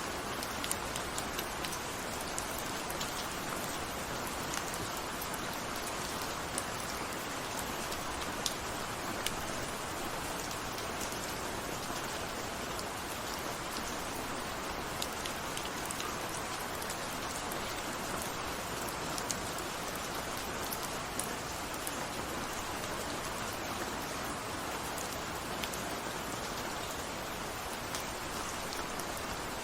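Steady rain falling, an even hiss of rainfall with scattered sharper drops ticking on a surface.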